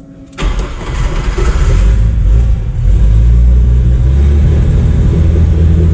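Chevrolet Opala's turbocharged inline six-cylinder engine firing on a cold start: it catches suddenly about half a second in, its revs shift over the next couple of seconds, then it settles into a steady run.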